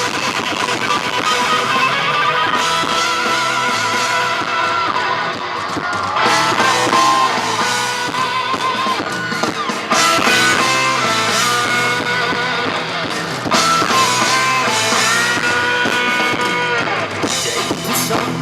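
Live rock band playing an instrumental passage: an electric guitar lead with bent and wavering notes over drums and bass. The recording is loud and distorted, clipping in places.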